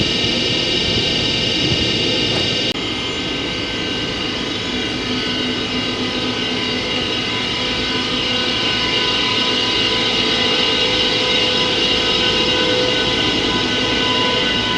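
Train hauled by an electric locomotive, giving a loud, steady whine of several high tones over a rumble. The level drops slightly about three seconds in.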